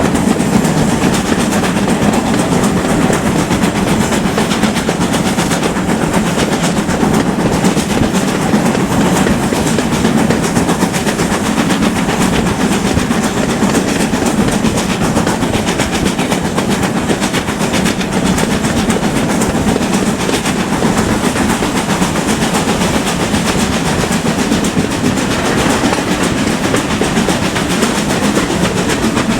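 Steam-hauled train on the move, probably with Manor class locomotives at its head: a steady, loud rumble of wheels on the rails with a clickety-clack running through it.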